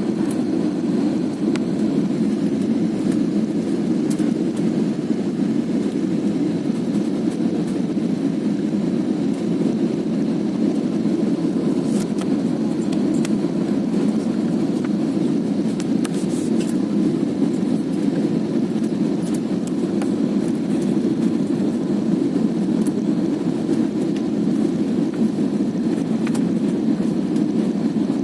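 Steady low rush of engine and airflow noise inside an airliner cabin, even throughout, with a few faint ticks about twelve and sixteen seconds in.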